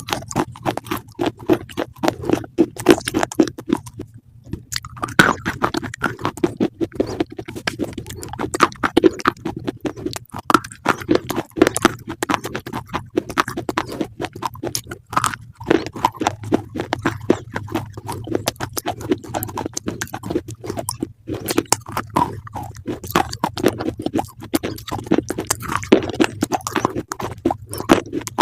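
Close-up crunchy chewing, one crunch after another in a quick, uneven run, as something crisp is bitten and chewed.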